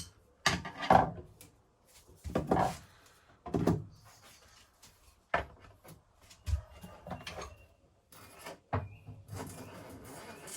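Plumbing parts at a sink being handled and pushed into place: a run of separate knocks and scrapes about a second apart, then steadier rustling and handling noise near the end.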